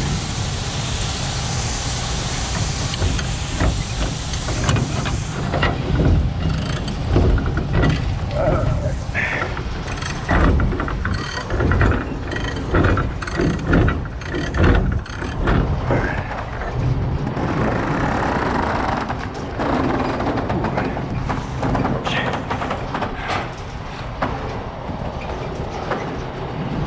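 Semi truck engine running, with a hiss for the first few seconds and then a series of irregular metallic knocks and clanks.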